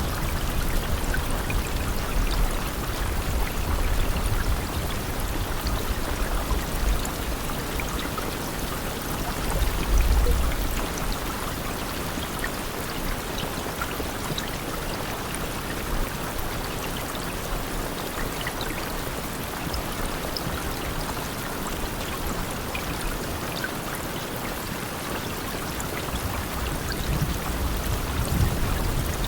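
Steady rain falling, an even hiss with scattered drop taps, and a few low swells, the strongest about ten seconds in.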